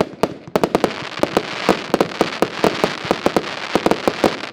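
Finale of a Lesli Prezident Piro firework battery: a rapid volley of loud bangs, about six a second, over a constant rushing noise.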